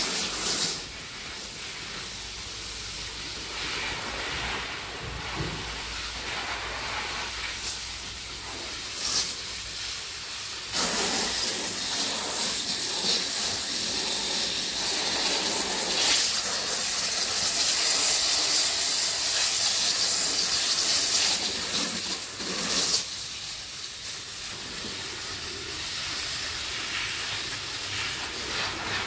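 Steady hissing noise with no pitch, louder from about eleven seconds in until about twenty-three seconds in.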